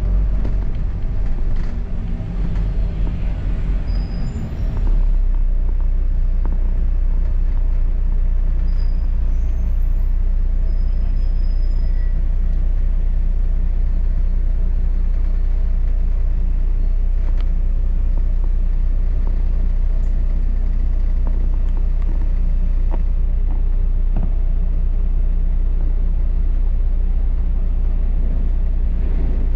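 Double-decker bus heard from on board: a steady low engine and road rumble, which gets a little louder and evens out about five seconds in.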